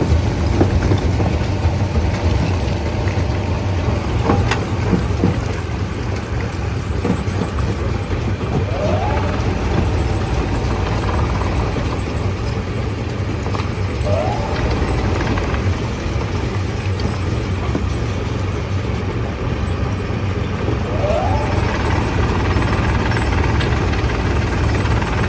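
Heavy stone-crushing machinery running steadily with a deep low hum, a few knocks, and three short rising whines spaced several seconds apart.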